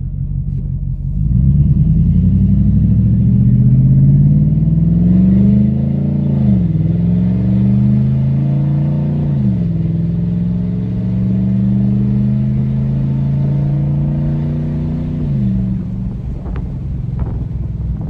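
2013 Ford F-150 Raptor's 6.2-litre V8 running through straight pipes with the muffler and resonator deleted, accelerating through the gears: the exhaust note climbs, drops sharply at upshifts about six and nine seconds in, holds a long steady pull, then falls again about fifteen seconds in.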